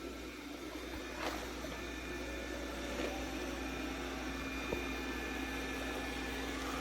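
A roborock Qrevo Curv robot vacuum and mop running with a steady hum, with a few faint clicks.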